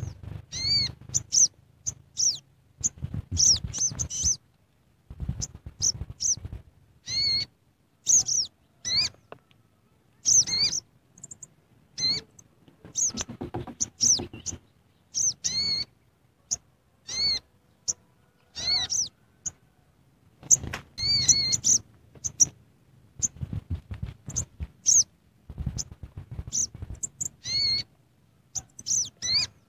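A bird chirping over and over in short, arched, high notes. The notes come in quick clusters separated by brief pauses.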